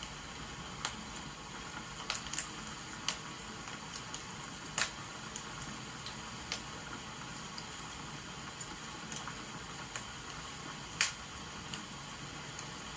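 Wood fire crackling, with irregular sharp pops scattered over a steady rain-like hiss.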